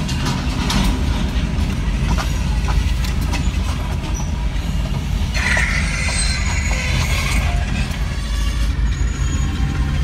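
Train rolling past: a steady low rumble with scattered clicks of wheels over rail joints. A high-pitched wheel squeal lasts about two seconds, a little past the middle.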